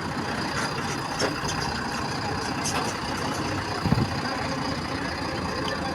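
A heavy vehicle's engine idling steadily amid road traffic, with a brief low thump about four seconds in.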